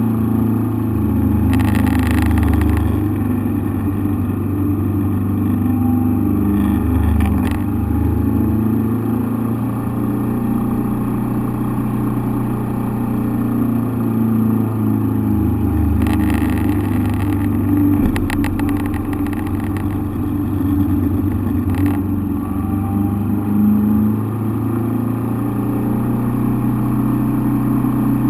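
Engine running at a steady, nearly constant speed, heard from inside the cockpit, with a few brief rushing noises over it.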